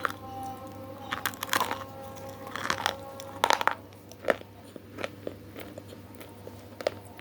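Close-up eating sounds: crisp food being bitten and chewed, with irregular sharp crunches, a cluster of the loudest ones near the middle.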